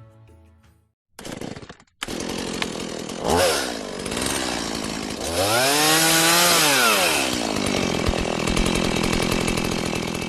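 Small motorcycle engine running, revved twice: a short blip about three seconds in, then a longer rise and fall in pitch around six seconds, before settling back to a steady run.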